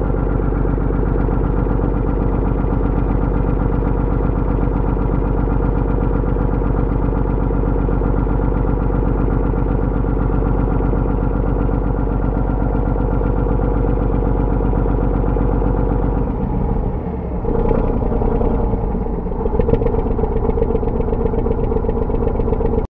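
A fishing boat's engine idling steadily. About sixteen seconds in its sound dips briefly and changes, then it runs on steadily with a different note.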